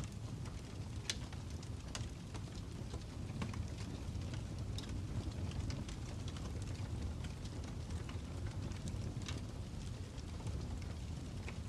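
Wood fire crackling: irregular sharp pops and snaps over a steady low roar.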